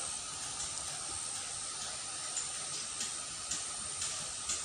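Steady hiss of water running in a small ditch, with faint ticks of trickling and a steady high tone over it.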